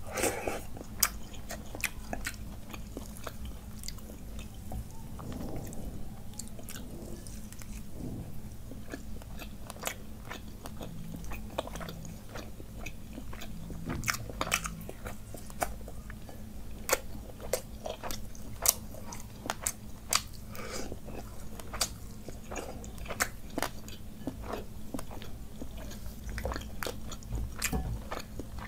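Close-up eating sounds of soaked rice and fried fish eaten by hand: wet chewing and biting with many short, sharp mouth clicks and smacks, some crunchy, over a faint steady low hum.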